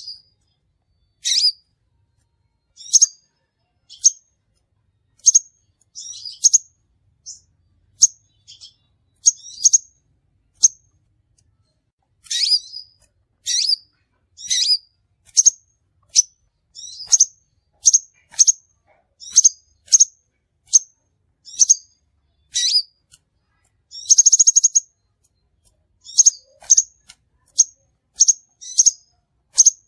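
Crimson sunbird (sepah raja) lure-call recording: short, sharp, high-pitched chirps in quick succession, a little more than one a second, with one longer buzzing trill near the end.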